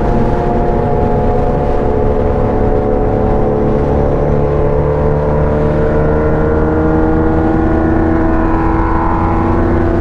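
A motor vehicle engine runs steadily, its pitch climbing slowly through the second half as it gathers speed.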